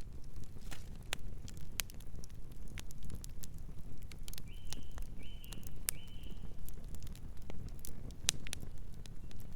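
Campfire crackling: irregular sharp snaps and pops over a low, steady rumble of burning wood. A bird chirps three times in quick succession around the middle.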